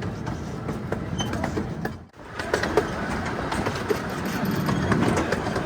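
Zoo train running along its track, heard from on board: a steady rumble with scattered clicks from the wheels and cars. The sound cuts out briefly about two seconds in.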